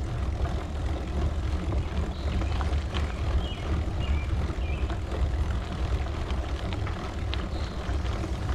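Wind rumbling on the microphone over the crunch and ticking of a gravel bike climbing slowly on a gravel road, with a few faint high chirps in the middle.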